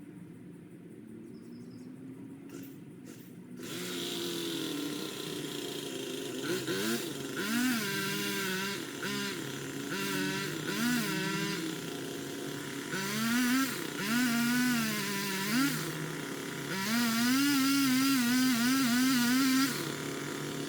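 Power limb cutter (a pole saw) revving up in four bursts of a few seconds each, its pitch wavering and dipping as the chain bites into branches. A quieter low hum runs underneath before the first burst.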